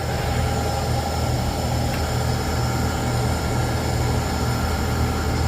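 Steady cabin hum inside an Alstom Metropolis C830 metro train, a continuous low drone with faint steady higher tones.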